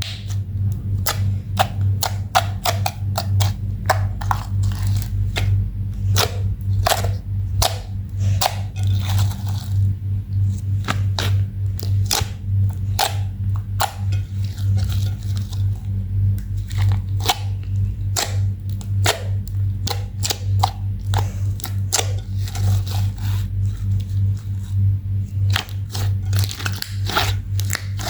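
Slime being kneaded and stretched by hand, giving a steady run of irregular wet clicks, crackles and pops, over a constant low hum.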